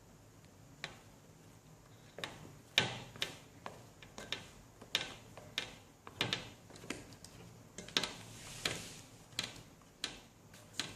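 A utensil stirring sponge cake batter in a mixing bowl, knocking against the bowl's side in an uneven rhythm of roughly one knock every two-thirds of a second, starting about two seconds in. The flour is being stirred into the batter in batches.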